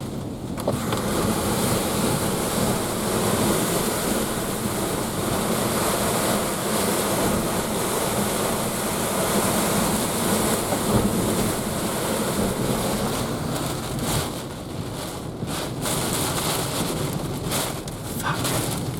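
Hurricane wind blowing hard and steadily, buffeting the microphone, with brief lulls a few seconds before the end.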